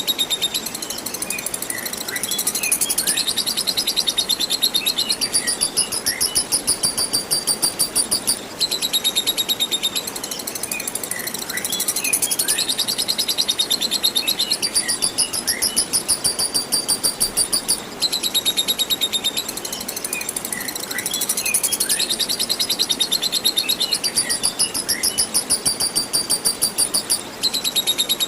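Lovebird singing its long 'ngekek' chatter: an unbroken run of very rapid, high chirps that stops briefly about every nine seconds and starts again. Steady running water hisses underneath, with a few faint, short falling chirps from other small birds.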